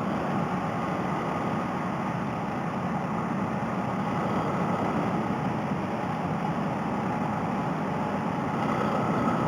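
Honda Rebel 250 motorcycle under way, its engine and the rush of riding noise picked up by a helmet headset microphone: a steady drone.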